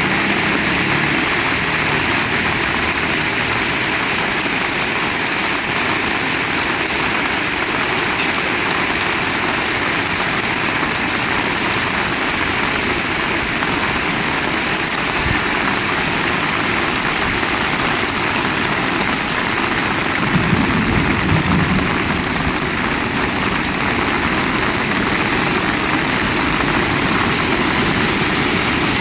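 Heavy rain falling steadily, with a brief low rumble about twenty seconds in.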